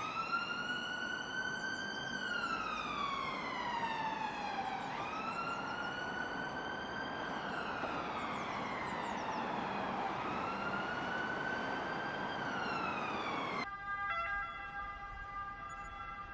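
Ambulance siren wailing, its pitch slowly rising, holding, then falling, about every five seconds, three times over. Near the end it cuts off abruptly and a different siren follows, a steady chord of several held tones.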